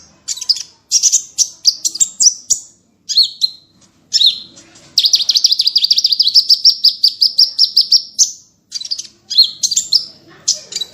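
Small songbirds singing sharp, high 'tembakan' chirps and short rapid phrases, broken by a fast, even trill lasting about three seconds from about five seconds in.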